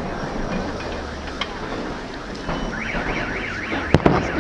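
A car alarm warbling, a quick rising-and-falling whine about four sweeps a second, starting about two and a half seconds in over steady outdoor crowd-and-street noise. A couple of fireworks bangs go off near the end.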